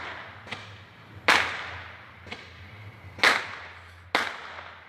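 Three loud, sharp bangs from the neighbourhood, about one, three and four seconds in, each trailing off in an echo, with fainter pops between them. They are not fireworks shells bursting in the sky.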